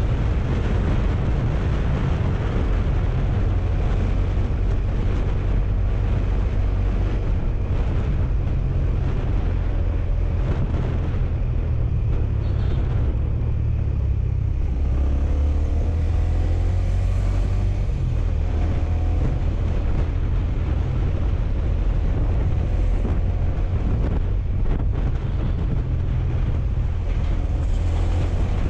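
Honda underbone motorcycle's engine running at road speed, with wind rushing over the microphone. The engine note rises about halfway through.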